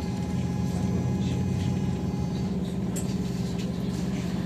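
A trolleybus heard from inside: a steady low electric hum, with a thin whine that fades about halfway through and light rattles and clicks.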